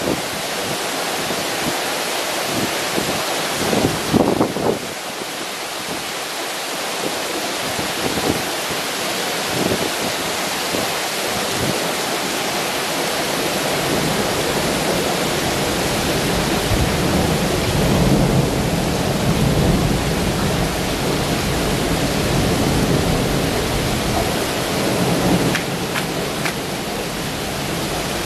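Heavy rain falling, a dense steady hiss, with a deeper low rumble building in the second half.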